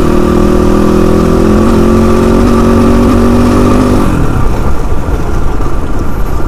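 Motorcycle engine running at a steady cruising speed. About four seconds in, the steady engine note drops away into a rougher rumble.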